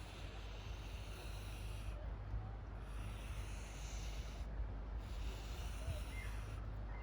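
Marker strokes scratching across paper: three long strokes of about one and a half to two seconds each, over a low steady rumble.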